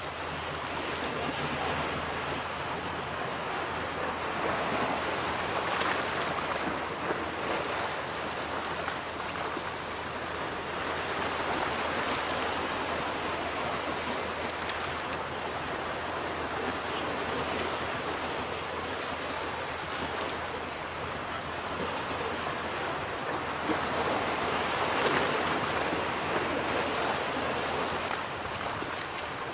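Ocean surf breaking and washing up a beach, a continuous rush that swells and eases in slow surges every several seconds.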